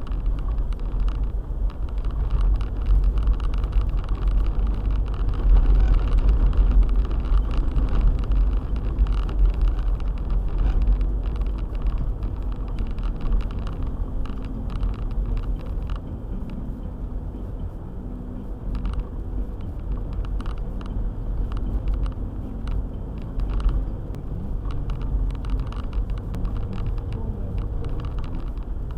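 Four-wheel-drive car driving on a snowy road: a steady low engine and road rumble with scattered light ticks and knocks.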